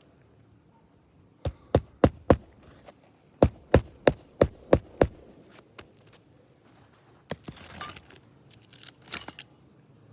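Hammer blows driving nails into a roof shingle: four sharp strikes, a short pause, then six more in a steady run. These are followed by brief scraping and rustling.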